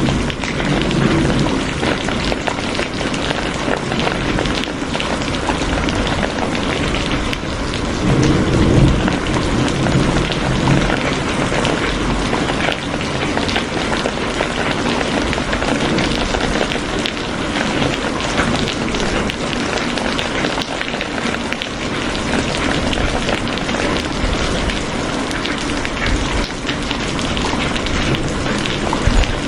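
Steady rain falling, a dense hiss of many small drop impacts. A low rumble swells up briefly about eight seconds in.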